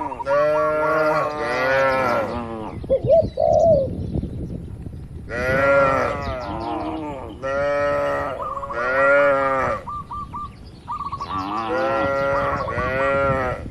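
Cattle mooing: about five long calls, one after another with short pauses between them.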